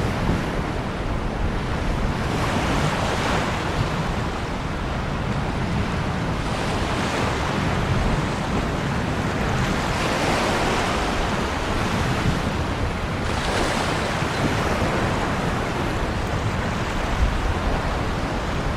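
Ocean waves washing onto a shore, a continuous rushing surf that swells gently every few seconds, with a low rumble of wind beneath.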